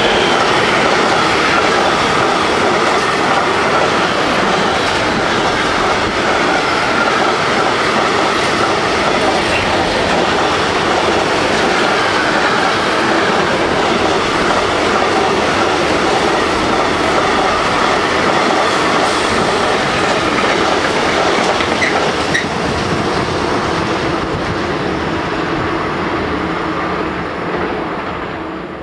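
Electric freight train of tank-container and container flat wagons passing close by at speed, its wheels rumbling and clattering on the rails. The noise dies away over the last few seconds as the end of the train passes.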